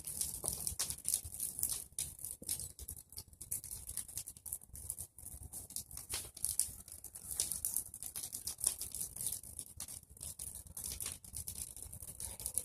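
Bonfire of pruned tree branches burning, with a dense, irregular crackle of many small pops.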